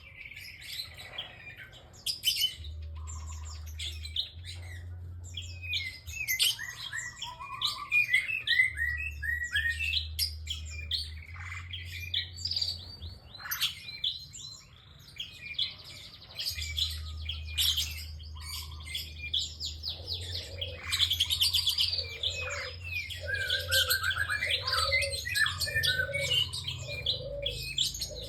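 A prinia singing continuously in rapid, high-pitched chattering phrases and trills with brief pauses, under a low hum that switches on and off in the background.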